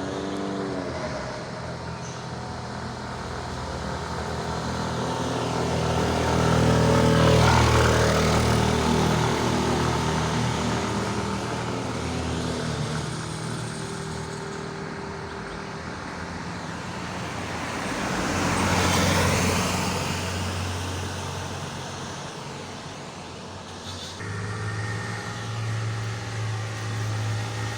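Motor vehicles driving up a steep hill road past close by, engines working under load. The loudest pass comes about seven seconds in and another about nineteen seconds in, and a steady engine runs close by from about twenty-four seconds in.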